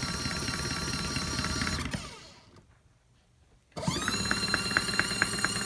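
Mini folding washing machine's motor running its wash agitation, winding down about two seconds in, stopping for about a second and a half, then starting again with a rising whine. The pause marks the agitator reversing direction, forward and backward.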